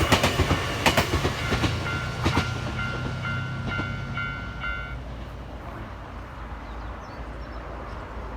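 Nankai Koya Line train passing over a level crossing, its wheels clacking over the rail joints for the first couple of seconds, then a low rumble that fades as it moves away. The crossing's warning bell rings in quick, even strokes and stops about five seconds in, once the train has cleared.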